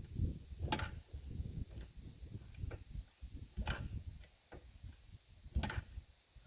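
Yamaha TTR 125 LE dirt bike being kick-started: sharp metallic clicks about once a second from the kick-start lever, over a low rumble. The engine does not catch.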